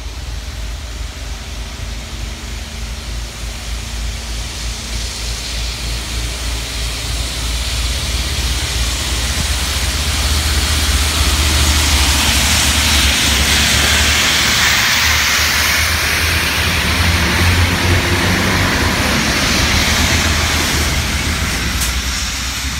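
Network Rail track-cleaning train passing close by, its diesel locomotive engine rumbling under a loud hiss from the water jets on the rails. The hiss builds to a peak as the cleaning wagons go past and fades near the end as the train pulls away.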